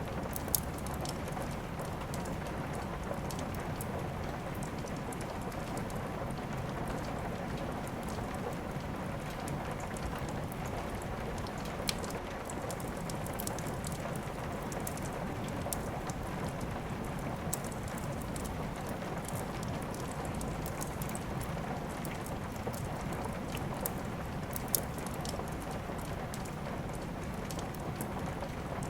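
Steady rain falling, with a few sharp pops of a crackling wood fire, the loudest about half a second in, near the middle and near the end.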